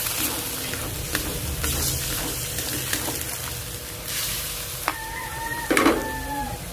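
Beef sizzling in soy sauce and vinegar in an aluminium wok, with a spatula and spoon stirring and clicking against the metal. About five seconds in, a long pitched call sounds over the frying.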